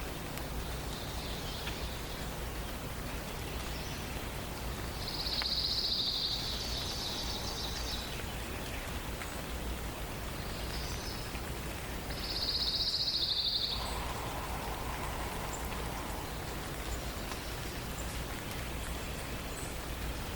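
Songbirds of a forest morning chorus singing over a steady background hiss. The loudest songs are two high, trilled phrases about five and twelve seconds in, each lasting a second or two, with a lower trill just after the second one.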